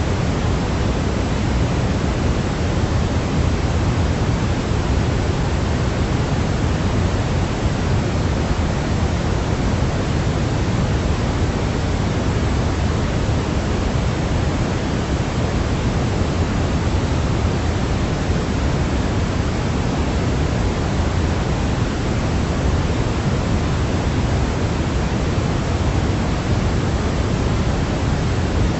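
Steady white noise for a baby's sleep: an unbroken, even hiss, fuller in the lows, with no change in level or character.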